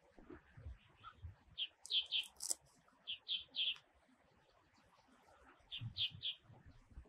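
Bird chirping: short, high chirps in quick groups of two or three, repeated three times, with faint low rumbles underneath.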